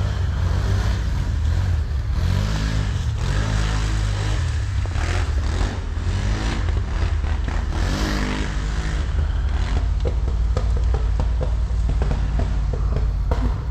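Off-road vehicle engine running while under way, its pitch rising and falling twice as the throttle changes. A scatter of small knocks and clatter comes in during the later part.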